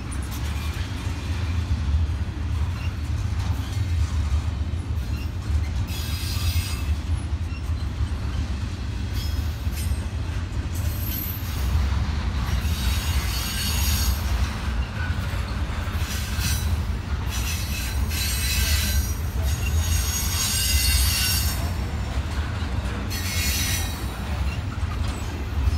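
Intermodal freight cars rolling past on steel rails, a steady low rumble of wheels, with high-pitched wheel squeal that comes and goes in several spells.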